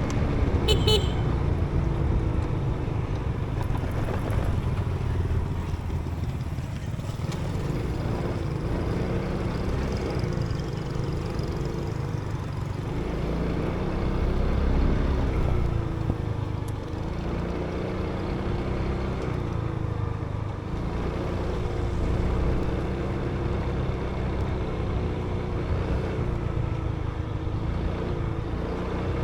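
Motorbike engine running on the move, its pitch rising and falling with the throttle, under heavy wind rumble on the microphone. A brief horn toot sounds about a second in.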